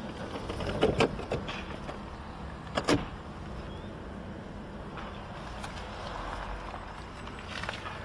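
Handling noises on a 2003 Opel Omega: a few sharp knocks and clicks, a cluster about a second in and a double knock near three seconds, over a low steady rumble.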